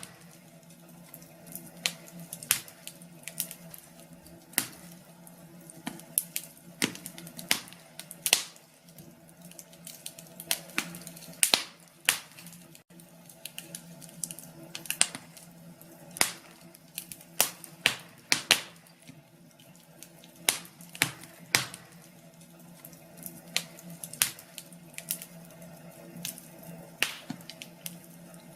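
Fire in a fireplace crackling, with sharp irregular pops coming several times a second, sometimes in quick clusters, over a faint steady hum.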